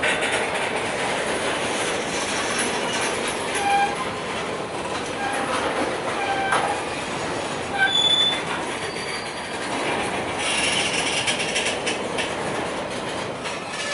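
Freight train of hopper wagons rolling past close by: the steady noise of steel wheels running on the rails, with short high-pitched wheel squeals several times.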